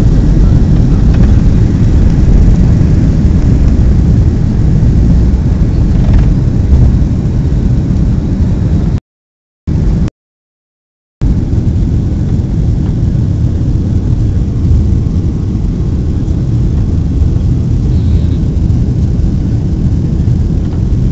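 Airliner cabin noise: a loud, steady low rumble of the engines and airflow heard from inside the plane, cut off to dead silence twice, briefly, about nine and ten seconds in.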